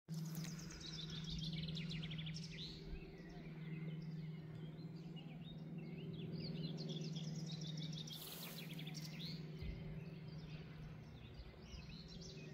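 Several birds singing and chirping over a steady low hum, with rapid trills and short chirps overlapping throughout.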